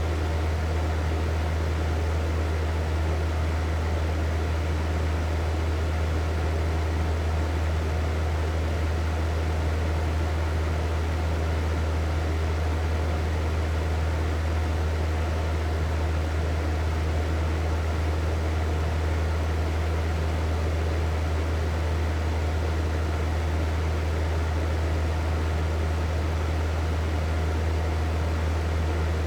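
Hair dryer running continuously: a steady motor hum with an even rush of blown air.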